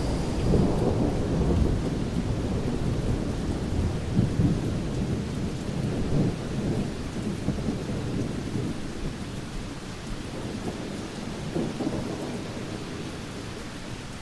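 Thunderstorm: thunder rumbling in long rolls over steady rain, the rumbling heaviest in the first half and fading away toward the end.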